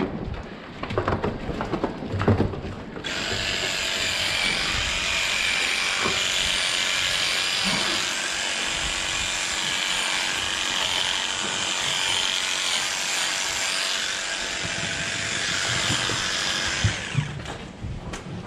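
A power tool runs steadily with a high whir. It starts abruptly about three seconds in and cuts off near the end, after some scattered knocks at the start.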